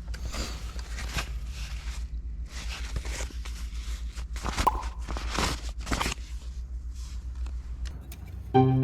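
Irregular rustling and crunching noises over a steady low rumble. Music comes in near the end.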